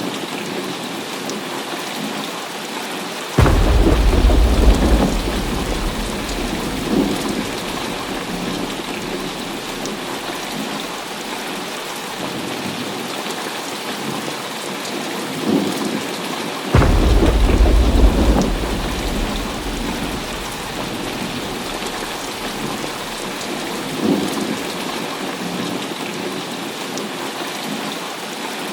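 Heavy rain pouring steadily, with two sudden cracks of thunder, about three seconds in and again about seventeen seconds in, each rumbling away over several seconds.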